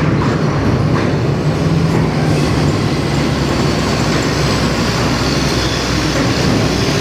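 A truck under way, with a steady engine drone and road rumble that do not change.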